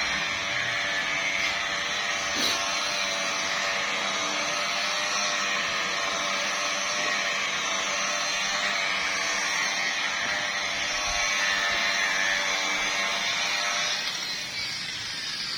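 Handheld electric paint-correction machine running steadily against a car's painted bonnet, a constant motor whine that begins to die away near the end.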